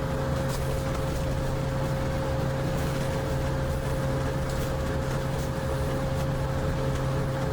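A steady machine hum with a constant mid-pitched tone over it, unchanging throughout.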